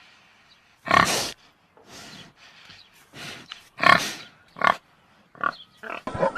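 An animal giving a series of short, harsh calls with short pauses between them, the loudest about a second in and about four seconds in.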